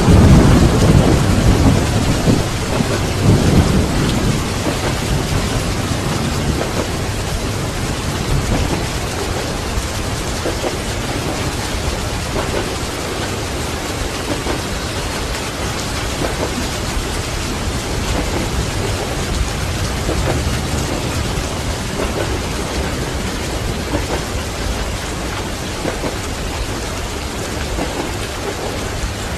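Thunder rumbling over heavy rain. The rumble is loudest in the first few seconds, then fades and leaves steady rain.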